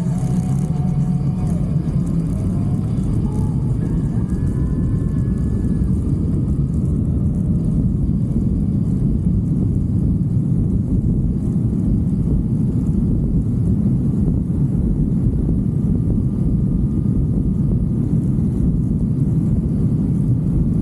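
Steady low rumble of a motorcycle on the move: engine and wind noise at a constant level.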